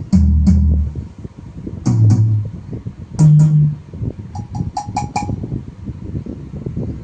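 Roland HandSonic HPD-20 electronic hand-percussion pads being struck and playing different drum sounds in turn. There are two deep bass hits at the start, more hits around two and three seconds in, then a quick run of short, higher-pitched strikes about five seconds in. No squealing noise is heard under the sounds, the sign that the repaired unit's noise fault is cured.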